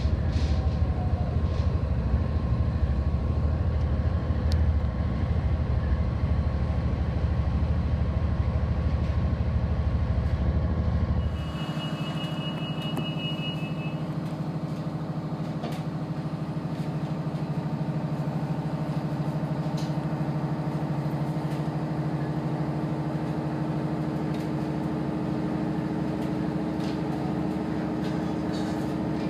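Commuter train heard from inside the carriage, running with a loud, deep, steady rumble. About eleven seconds in, the sound changes abruptly to a quieter steady hum, as when stopped at a station, with a high beep lasting about two seconds.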